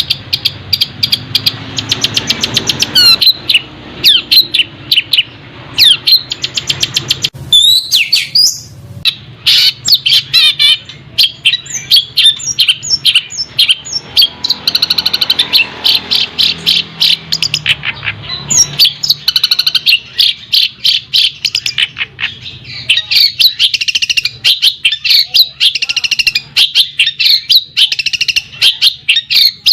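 Songbird singing a fast, continuous string of sharp chirps and trills, with a brief switch to sweeping whistled notes about eight seconds in.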